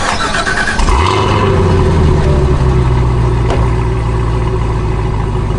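Supercharged 6.2-litre LT4 V8 of a 2022 Cadillac CT5-V Blackwing firing up about a second in, rising briefly, then settling into a steady idle.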